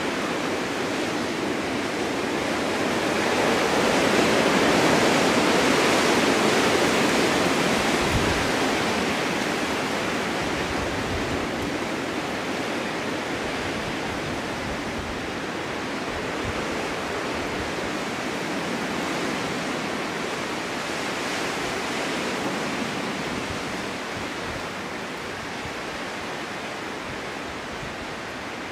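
Snowstorm wind blowing: a steady rushing noise that swells about four seconds in, then slowly dies down again.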